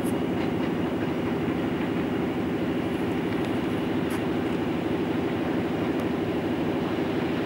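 EP07 electric locomotive hauling passenger coaches on its approach: a steady low drone with a few faint clicks.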